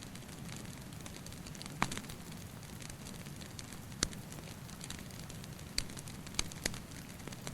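Wood fire crackling, with a handful of sharp pops over a steady low hiss.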